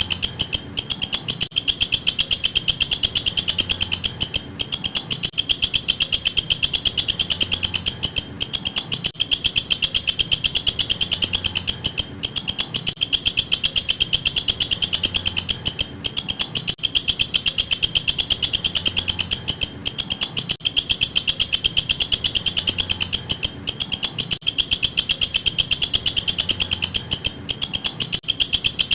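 Walang kecek katydid stridulating: a fast, dry train of rapid high-pitched pulses, broken by short pauses about once a second.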